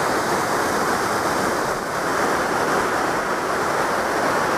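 Glacial waterfall rushing with a steady, loud roar of falling water, heard up close.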